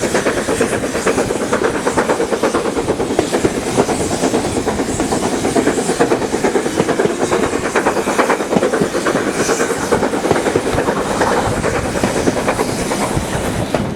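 Train running along the line, its wheels clattering over the rail joints in a steady, fast rattle.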